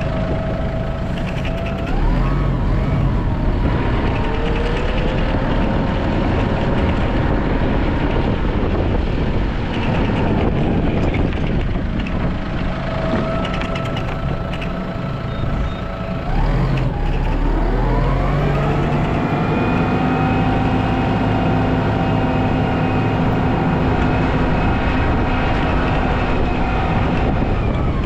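A vehicle engine revving up, holding steady at higher speed, then dropping back, twice over: the pitch climbs about two seconds in and again past the middle.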